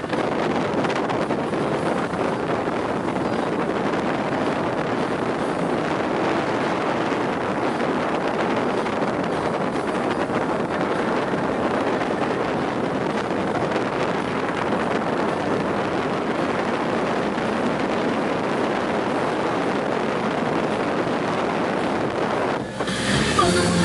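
Steady rush of wind on the microphone and water noise aboard a motorboat under way. About a second before the end it gives way to louder music.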